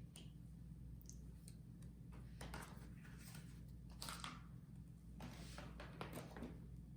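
Near silence: a steady low room hum with a few faint rustles of paper, typical of letter cards being handled and swapped.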